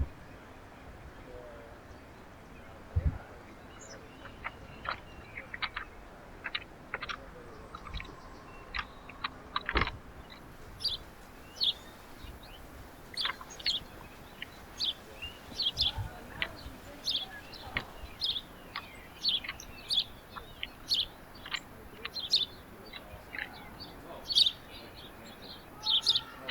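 Small songbirds chirping at a backyard feeder: short high chirps, a few at first, then coming thick and fast from about ten seconds in. A couple of soft thumps come early on the track.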